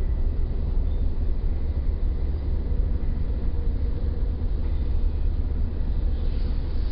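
Steady, deep rumble of a moving passenger train heard from inside the carriage, slowed to a third of its speed.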